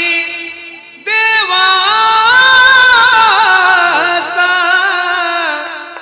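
A solo voice singing in a melismatic style, holding long notes with wavering, ornamented pitch. A held note fades away about a second in, then a new long phrase begins.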